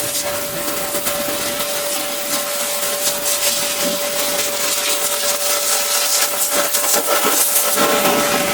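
Pressure washer running steadily, its motor holding one steady whine under the hiss of the water jet, which gets a little louder and brighter about seven seconds in.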